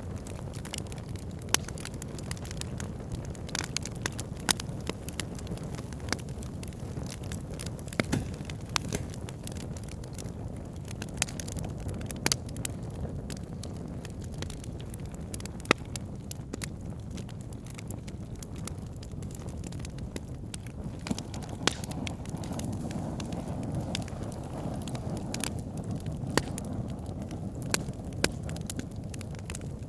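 Fire in a fireplace crackling: a steady low rush of flame with frequent sharp, irregular pops and snaps.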